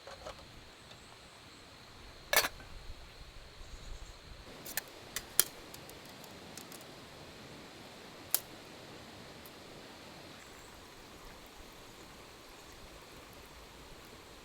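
A few sharp clicks and knocks, the loudest about two seconds in and several smaller ones over the next six seconds, over a faint steady hiss.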